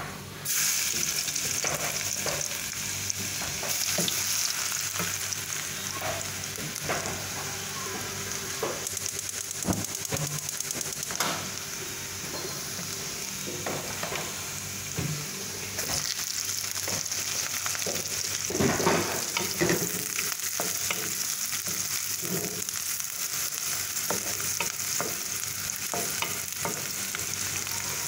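Minced garlic dropped into hot oil in a stainless steel wok, setting off a steady sizzle, while a wooden spatula scrapes and knocks against the pan as it is stirred. The garlic fries along with chopped onion.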